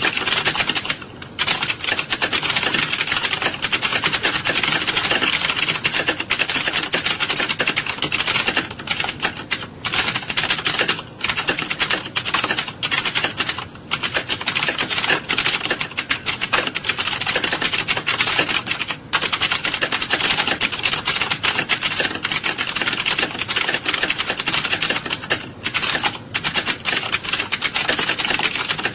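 A roomful of keyboards being typed on at once: a dense, continuous clatter of keystrokes with a few brief lulls.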